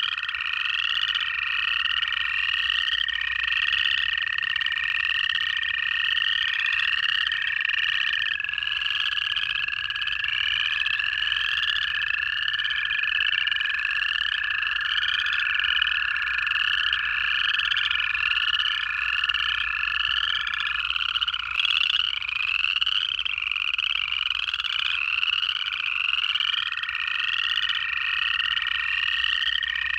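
Dense chorus of upland chorus frogs giving rising trills, overlapping one another continuously. Over it run long, steady American toad trills, which drop out for a few seconds after the middle and then start again.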